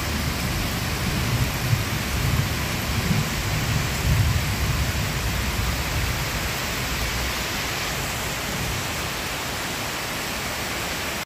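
Steady hiss of heavy rain falling on a garden lawn and foliage, under a low rolling rumble of thunder that swells in the first few seconds and dies away about two-thirds of the way through.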